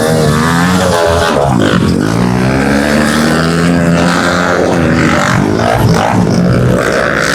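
Several pit bike engines racing, their pitch rising and falling repeatedly as the riders open the throttle and shift through the gears.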